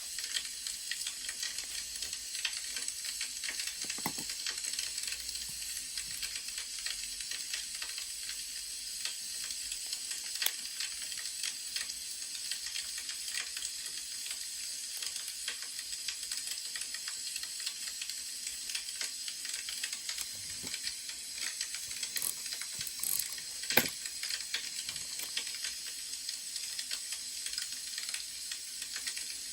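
Wood fire crackling: a steady hiss with many small scattered pops and one louder snap late on.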